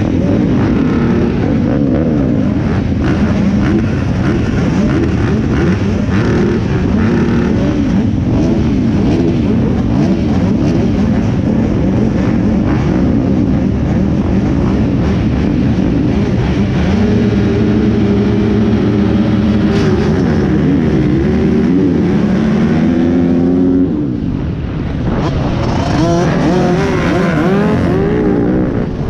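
Several pit bike engines running together on a motocross track, their pitches rising and falling as the riders rev up and shut off. The sound dips briefly about two-thirds of the way in, then swells again as bikes come closer.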